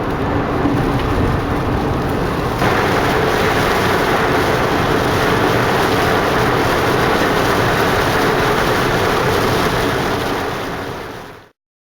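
Road noise inside a moving car on a wet road: a steady rush of tyres and wind that gets louder and hissier about two and a half seconds in, then fades out near the end.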